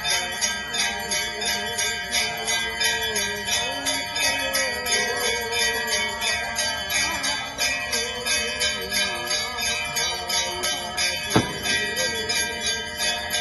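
Bells jingling in a steady rhythm, about three pulses a second, over many ringing tones; one sharp knock about eleven seconds in.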